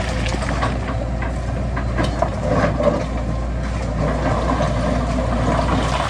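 Heavy diesel construction machinery running steadily, with scattered clanks and knocks.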